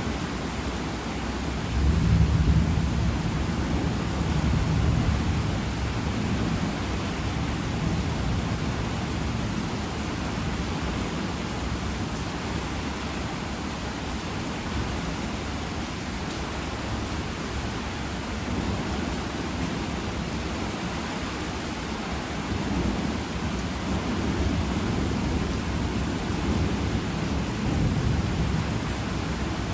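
Steady heavy rain falling, with deep thunder rolling in about two seconds in and again a few seconds later, and fainter low rumbles later on.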